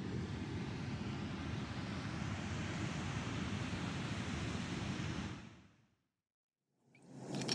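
Steady, deep outdoor rushing noise with no distinct events. It fades out to silence about five and a half seconds in and fades back in near the end.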